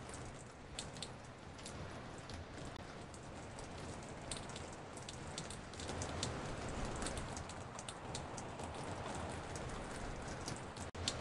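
Rain dripping onto a porch: a steady hiss of rainfall with many separate drop strikes at irregular intervals, layered from recorded samples and spread around the listener in 3D. The sound drops out for an instant near the end.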